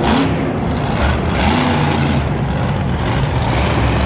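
Monster truck engine running, with a brief rev that rises and falls about one and a half seconds in.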